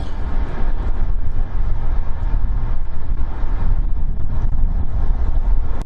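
Strong gusting wind buffeting the microphone, over the steady noise of the Airbus A380's jet engines as it comes in to land in a storm crosswind.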